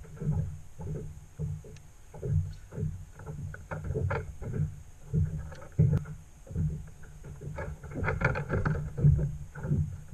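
Water slapping and knocking against a kayak's plastic hull in an uneven run of low thumps, with small splashes.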